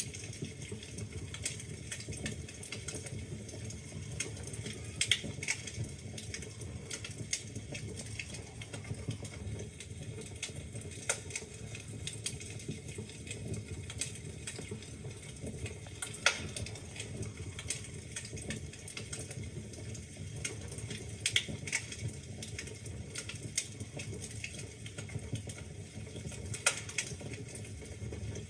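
Wood fire crackling in a fireplace: a steady low rumble of flames with irregular sharp pops and snaps from the burning logs, a few louder ones standing out.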